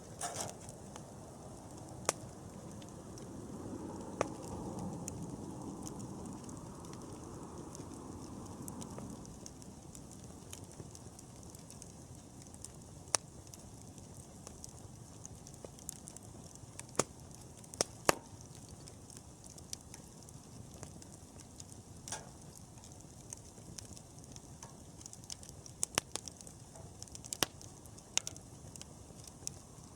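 Wood campfire burning: a steady low rush of flame with scattered sharp pops and crackles, the pops coming more often near the end. A low rushing swells for a few seconds about three seconds in, then settles.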